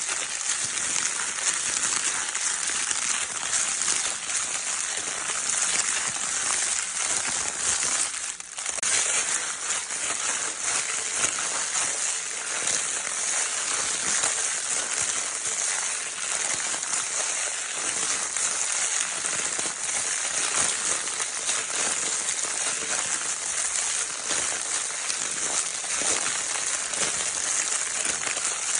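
Crinkle paper of a baby's crinkle toy being handled without pause: a dense crackling rustle, dipping briefly about eight seconds in.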